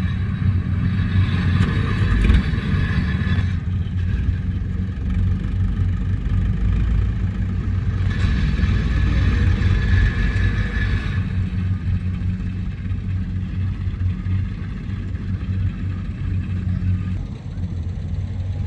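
Rice combine harvester running steadily with a deep engine hum. A higher whirring comes in over it twice: for the first few seconds, and again from about eight seconds in for three seconds.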